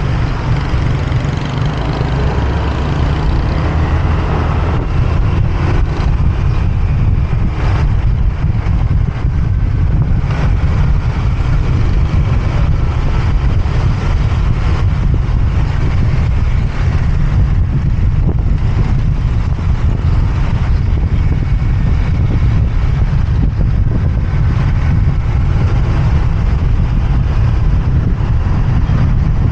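Steady wind rumble on the microphone of a motorbike in motion, over its engine and the traffic around it.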